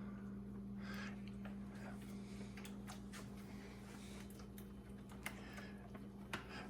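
Light, scattered clicks and taps of a utensil against a cooking pot as dumplings are cut up in it, over a steady low hum.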